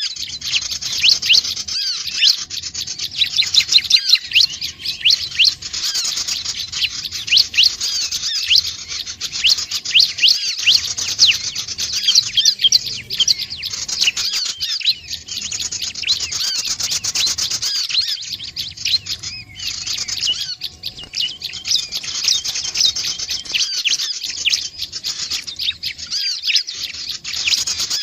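Prinia song, the bird kept in Indonesia as ciblek or prinjak: a dense, unbroken stream of rapid, high chirps and trills.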